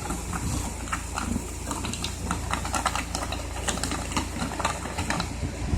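Slime mix of shaving foam and white glue being stirred in a bowl: irregular small clicks and squelches, over a steady low hum.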